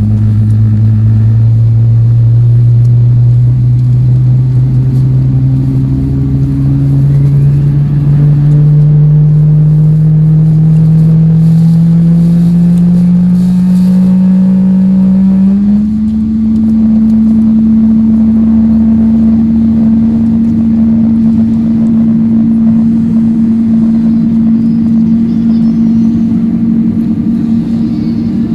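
Electric train's traction motors whining as it accelerates: a low hum rises steadily in pitch for about fifteen seconds, then holds at one steady pitch.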